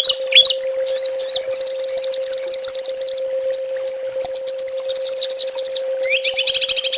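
Small songbirds calling in rapid-fire bursts ('tembakan'): short rising whistled notes, then fast, high, dry trills, two of them longer, with a steady low hum underneath.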